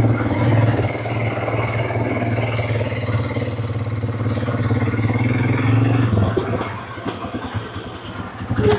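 Quad bike engine running steadily under way, its note dropping off about six seconds in as the throttle eases, then picking up again near the end.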